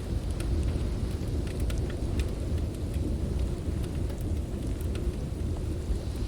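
Blizzard wind making a deep, steady roar, with the scattered sharp crackles and pops of a wood fire on top.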